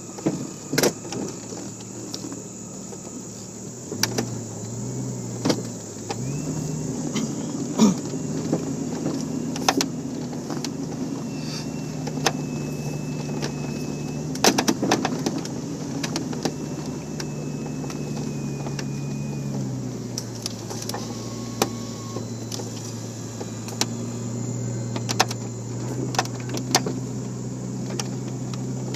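Off-road 4x4's engine working its way up a trail, the engine note stepping up about 4 and 6 seconds in and dropping back about 20 seconds in, with scattered sharp knocks and clunks.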